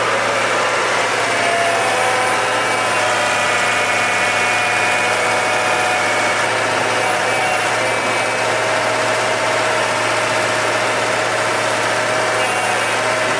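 A motor engine running steadily, then cutting off suddenly.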